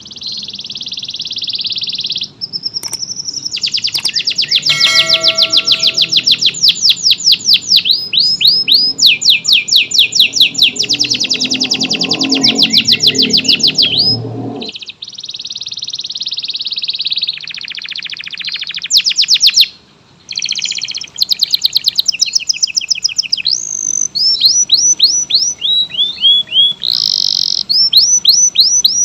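Domestic canary singing a long song of rapid trills and quick runs of repeated sweeping notes, with short breaks about 15 and 20 seconds in. A low rumble lies under the song during the first half.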